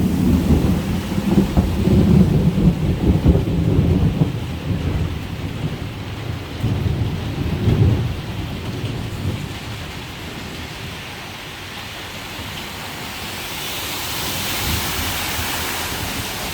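Thunder rumbling low and heavy for the first four seconds, with another shorter rumble around seven seconds, over steady rainfall. The rain grows louder and hissier near the end.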